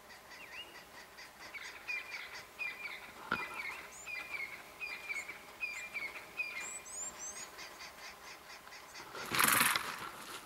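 Bird calling over and over: a short falling chirp about twice a second, with higher chirps around the middle, over a faint steady ticking. A short, loud rasping burst comes near the end.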